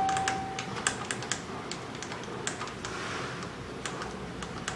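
Schindler elevator's door-close button pressed over and over, a quick irregular run of sharp clicks; the button is not closing the doors. At the start, the tail of a single chime tone fades out.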